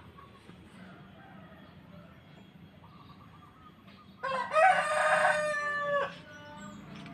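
A rooster crowing once, about four seconds in, a loud call of about two seconds that ends on a held note.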